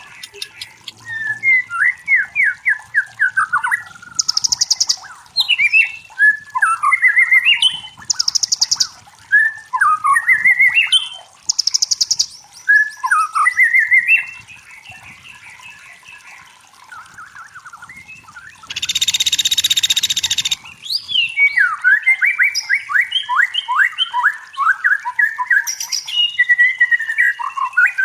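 White-rumped shama (murai batu) singing loudly: varied whistled phrases and rapid trills, with short high buzzy notes here and there and a harsh hissing burst about two-thirds of the way through.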